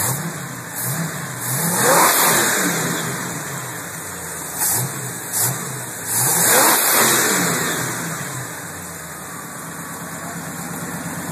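V8 engine being revved: a quick blip, a longer rev about two seconds in, two more quick blips, then another long rev, dropping back to a steady idle near the end.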